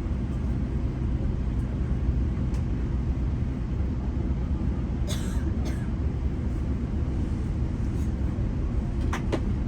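GO Transit bilevel commuter train running on the line, heard from on board as a steady low rumble. A few short, sharp clicks or squeaks cut through about halfway in and again near the end.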